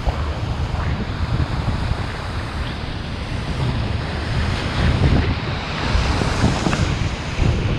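Ocean surf washing and surging against the shore in a heavy swell, with wind buffeting the microphone in uneven low rumbles.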